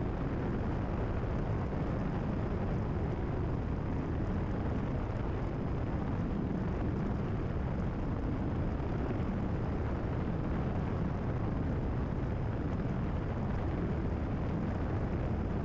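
Steady in-cabin drone of a Cessna 172RG's piston engine and constant-speed propeller in cruise flight, deep and even, with no change in power.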